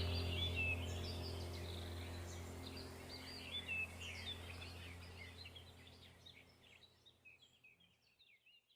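Small birds chirping and singing over a low, sustained music drone; both fade out together, leaving silence about six seconds in.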